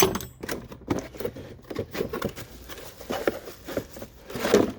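Hammer drill accessories and packaging being handled: an irregular run of clicks, knocks and rustles, with a sharp knock right at the start and a louder cluster near the end.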